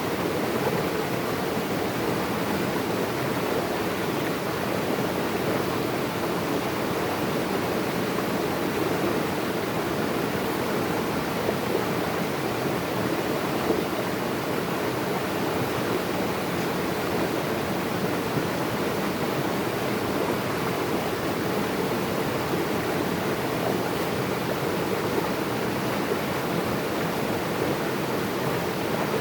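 Natural running water rushing steadily and evenly, a continuous flow with no breaks or changes.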